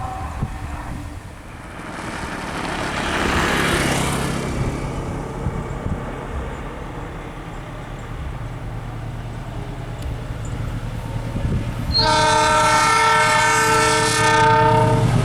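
Diesel train approaching with a low engine hum and rushing noise, then sounding a long multi-tone horn blast for about three seconds near the end.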